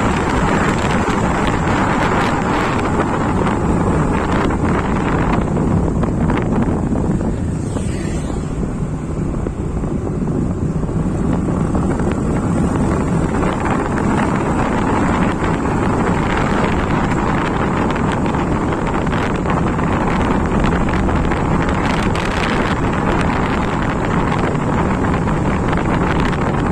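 Wind rushing over the microphone of a moving motorcycle, with the running engine and road noise underneath, steady and loud.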